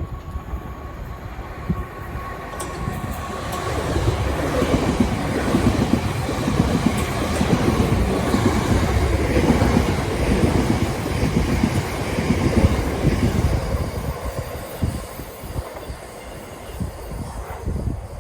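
A train passing through the station without stopping: the sound builds about four seconds in, is loudest in the middle with the wheels clattering over the rails, and fades away near the end.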